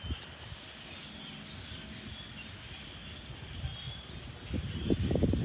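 Faint, short bird chirps over steady outdoor background noise, with a burst of loud, low rumbling thumps near the end.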